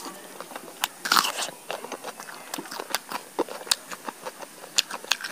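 Close-miked chewing of roasted chicken: irregular wet mouth clicks and smacks, with a louder, noisier moment about a second in.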